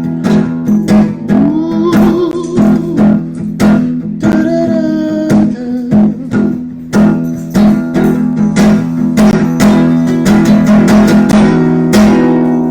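Acoustic guitar strummed in a steady rhythm with a few wordless sung notes, closing a song: a last strummed chord near the end is left to ring out and fade.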